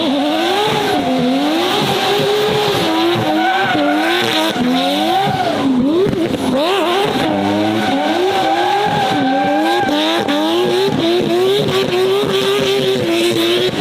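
Race car engine running hard, its pitch climbing and dropping over and over as the throttle is opened and lifted, with tyres squealing.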